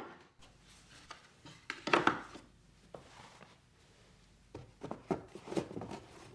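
Decor items being handled and set down on hard surfaces, with knocks and clatters. The loudest cluster comes about two seconds in, and another follows around five seconds in.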